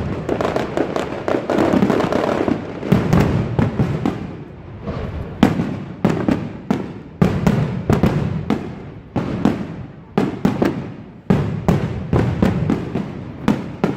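Fireworks display going off: a dense run of bangs and crackles at first, then separate sharp bangs about every half second to a second, over a steady rumble.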